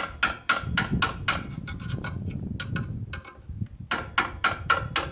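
Repeated hammer blows on metal, about three to four a second, each with a short ringing tone. A pause of about two seconds comes in the middle, then a second quick run of blows near the end.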